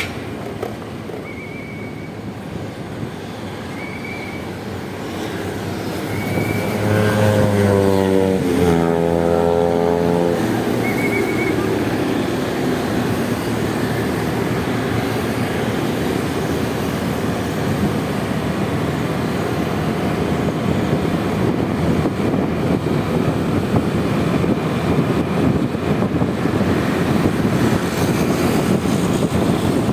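Ride on a Honda Vario 125 scooter in city traffic: its small single-cylinder engine pulls away, the engine note rising twice about seven to ten seconds in, then settling into steady running with road and wind noise as it cruises at speed. A few short faint high beeps come in the first dozen seconds.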